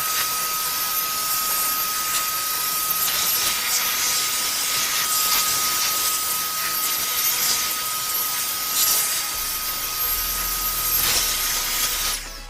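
A motorised cleaning machine running steadily: a loud, even hiss with a constant high whine, cutting off suddenly near the end.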